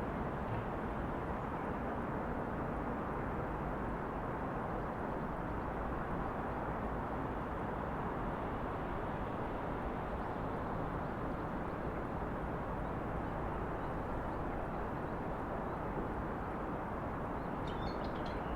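Steady hum of distant city traffic, an even wash of noise with no single vehicle standing out. A few short high chirps come near the end.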